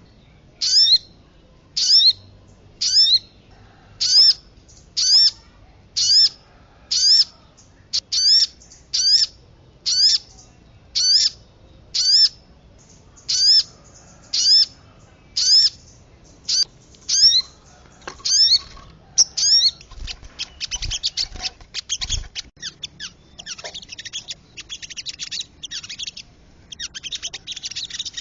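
Bird-lure recording of sogon and kemade calls: a short, high, sweeping call repeated about once a second, giving way at about twenty seconds to a fast, dense twittering chatter.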